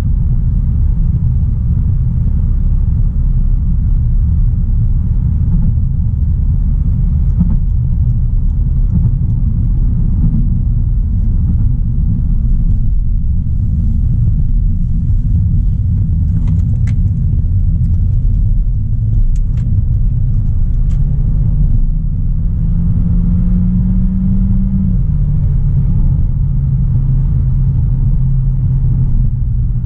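A 2016 Audi A3 Sportback's 1.4 TFSI turbocharged four-cylinder engine and road noise as the car drives along, a steady low rumble. Near the end the engine note climbs for a few seconds, then drops to a lower pitch as the dual-clutch gearbox shifts up.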